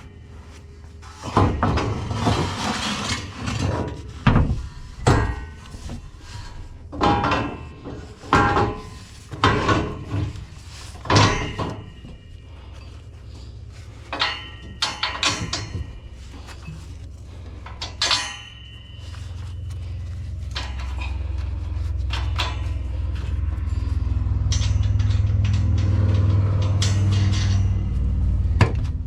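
Repeated knocks and clanks of metal parts and tools being handled during combine repair work, then a low steady rumble that grows louder in the last third.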